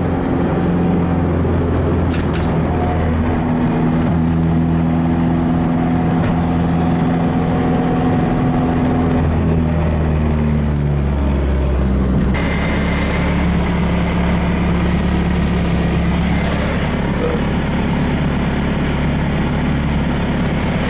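Turbocharged Nissan SR20DE+T four-cylinder engine running under way at a steady pitch, then easing down in pitch around ten seconds in. About twelve seconds in the sound changes abruptly to a hissier, lower steady engine and road drone.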